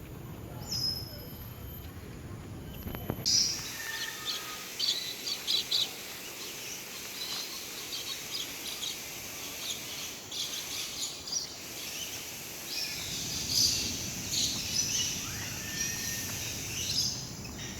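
Many small birds chirping, short high chirps in quick irregular runs that start about three seconds in, over steady background noise.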